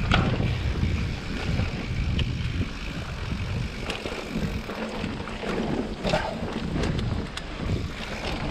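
Mountain bike rolling along a wet, muddy trail: wind rumble on the camera's microphone mixed with tyre noise, and a few sharp rattling clicks from the bike.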